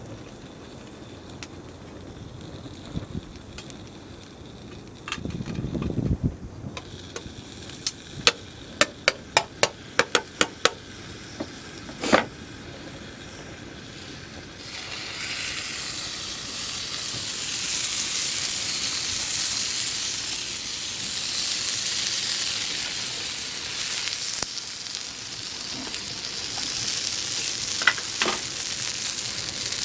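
A run of sharp clicks and taps, then about halfway through a loud, steady sizzle starts as gyoza fry in a hot pan.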